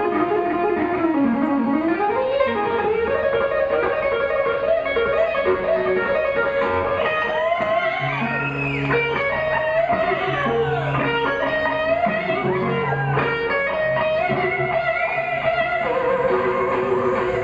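Live blues band playing an instrumental passage: an electric guitar solo with string bends over bass and drums.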